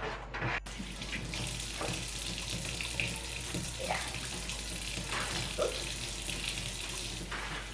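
Kitchen tap running in a steady stream while hands are washed under it, turned on about half a second in and shut off sharply near the end.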